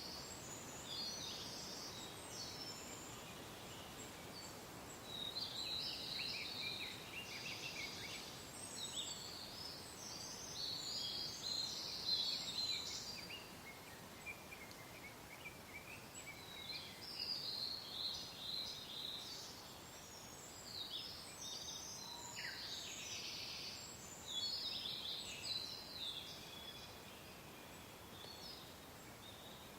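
Several birds singing and chirping in quick, overlapping phrases over a soft, steady hiss of wind.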